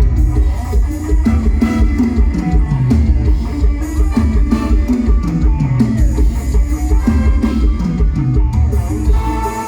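Thai mor lam band music: plucked electric strings over a heavy, sliding bass line and a steady drum kit beat, an instrumental passage without singing.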